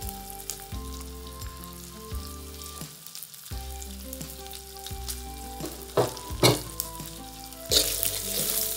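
Goat meat and curry-spiced seasoning sizzling in hot oil in a steel wok on a gas burner, with a couple of sharp clicks of utensils. Near the end a wooden spatula starts stirring and scraping the wok, and the sizzling grows louder.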